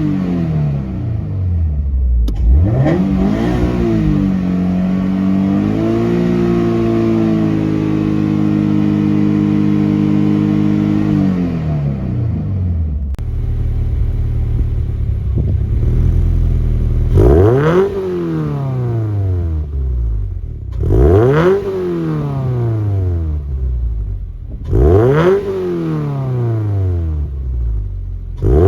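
Toyota 86's FA20 2.0-litre flat-four boxer engine on a test run, being revved: a couple of short revs, then held at raised revs for about six seconds before dropping back to idle. Near the end come three quick throttle blips a few seconds apart, each rising sharply and falling away, and another right at the end.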